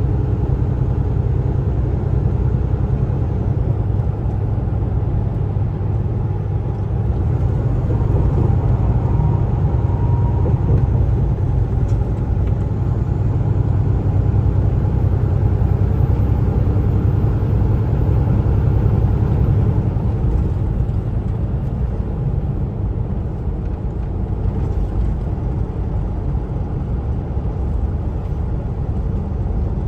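Steady low rumble of a Kenworth T680 semi truck's engine and road noise heard from inside the cab while driving along the highway.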